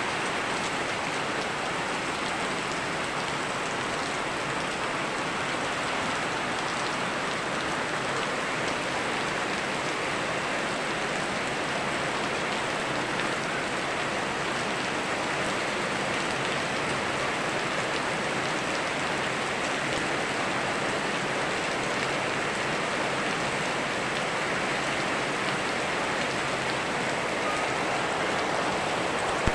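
Steady rain falling with a river running, a continuous even hiss that holds without change.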